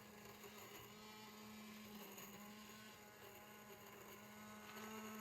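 Near silence, with a faint steady electrical hum holding one low pitch.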